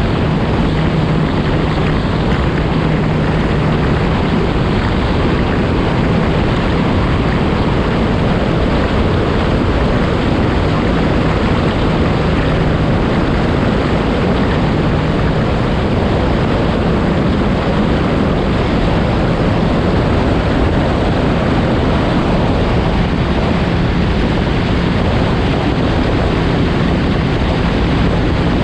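Yamaha FX SVHO personal watercraft running at a steady cruising speed: a low engine drone, faintly wavering in pitch, half buried under heavy wind rush on the microphone and rushing water.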